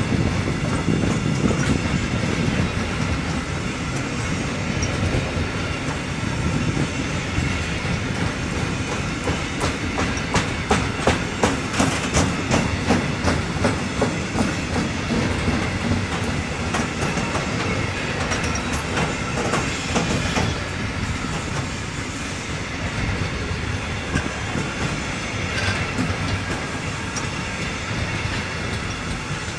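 A train running past on the rails with a steady rumble. Near the middle there is a run of rhythmic clicks as its wheels cross the rail joints, and a little later a brief high squeal.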